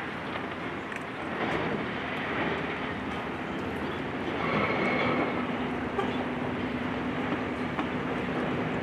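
Demolition machinery working: a heavy engine running under continuous clattering and scraping of debris, with a brief high-pitched metal squeal and a steady hum setting in about halfway through.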